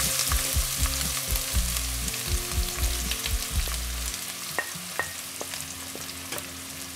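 Chopped red onions sizzling in hot oil with cumin and fennel seeds in a kadai as they are scraped in from a bowl with a spoon, with low knocks and a couple of sharp clicks of the spoon on the bowl. The sizzle slowly dies down.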